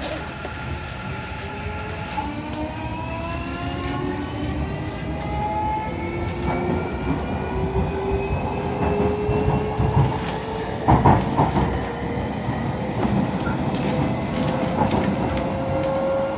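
JR Kyushu 305 series electric train's VVVF inverter and traction motors whining, several tones climbing steadily in pitch as the train accelerates, over the rumble of the wheels on the rails. A few louder clacks come about ten to eleven seconds in.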